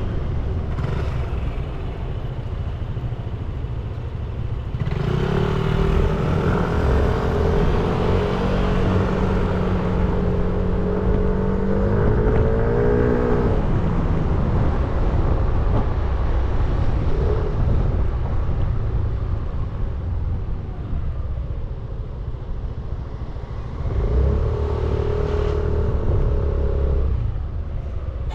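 Motorbike engine under way in traffic, pulling strongly from about five seconds in and rising in pitch before easing off around the middle, then pulling again near the end. Wind and road rumble run under it on the bike-mounted camera's microphone.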